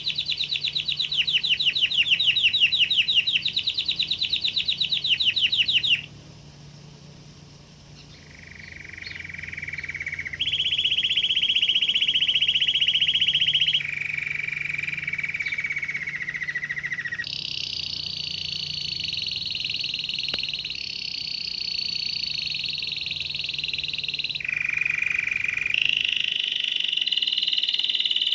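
Domestic canary singing. A fast trill of rapidly repeated notes runs for about six seconds, then after a brief pause come a series of rolling phrases, each held for a few seconds and pitched higher or lower than the last.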